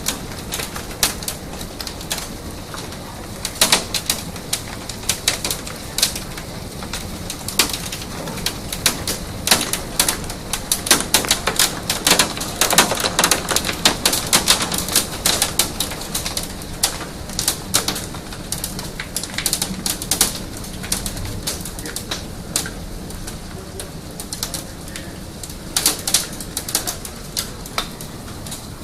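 Hailstones striking a house's deck, garage and sliding glass door: a dense, irregular clatter of sharp hits over a steady hiss, heaviest from about ten to sixteen seconds in.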